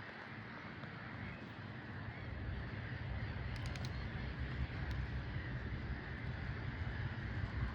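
Steady outdoor background noise, with a low rumble that builds from about two seconds in and a few faint clicks.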